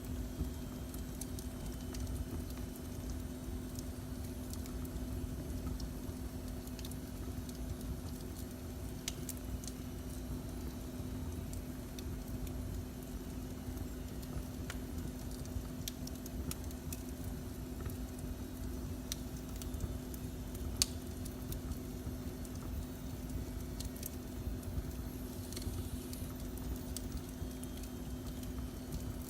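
Fireplace fire burning, with sparse crackles and pops and one sharper pop about two-thirds of the way in, over a steady low hum and rumble.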